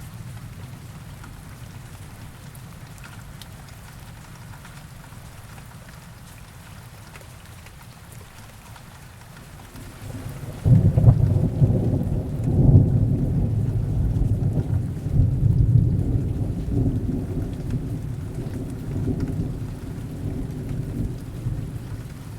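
Heavy rain falling steadily. About ten seconds in, a deep rumble of thunder comes in suddenly and rolls on in surges, slowly fading toward the end.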